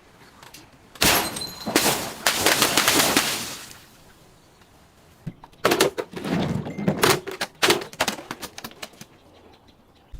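Something crunching and breaking as it is crushed: a long crackling, shattering stretch, then a run of sharp cracks mixed with dull thuds.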